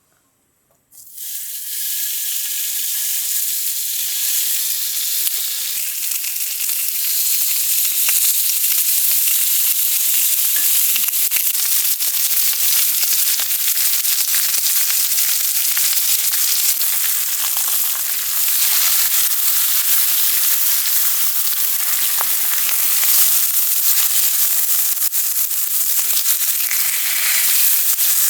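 Food sizzling as it fries in a hot pan. The sizzle starts abruptly about a second in and holds steady, with a fine crackle.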